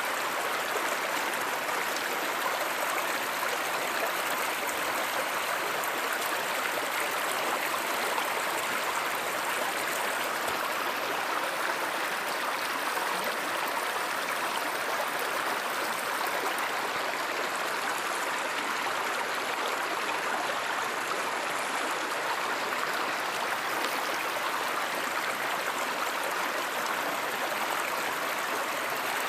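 Flowing stream rushing steadily, an even wash of running water with no break or change.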